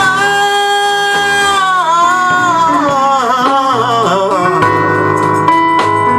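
Gospel singing with instrumental accompaniment: a singer holds a long note on the word "Son," bending it through runs, then the voice stops about four and a half seconds in and the accompaniment carries on alone.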